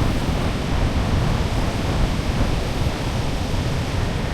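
Steady rushing noise, heaviest and most unsteady in the low end: wind buffeting the microphone outdoors.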